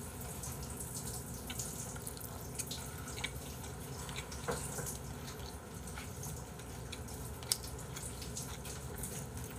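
Faint wet clicks and smacks of a person chewing a mouthful of food, over a faint steady hum.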